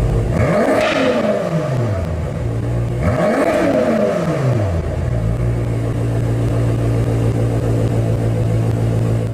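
BMW M6 engine and exhaust idling and blipped twice: the revs jump quickly about a second in and again about three seconds in, falling back each time, then settle to a steady idle.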